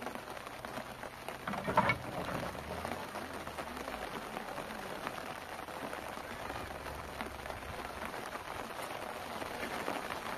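Steady rain, an even hiss, with one loud clatter of firewood being handled at the pickup about two seconds in.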